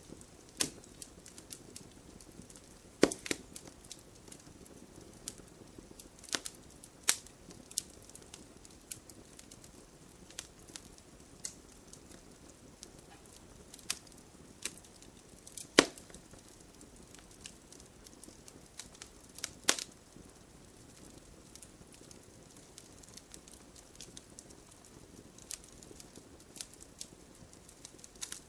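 Wood fire crackling: a soft steady hiss with irregular sharp pops and snaps. The loudest pops come about 3, 16 and 20 seconds in.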